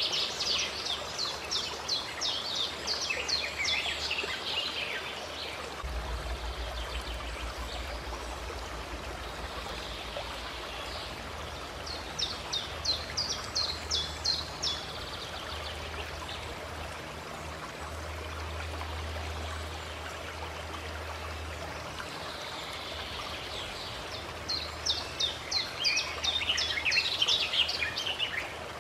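Steady rush of a flowing stream, with a songbird singing three bursts of rapid repeated notes, about ten seconds apart.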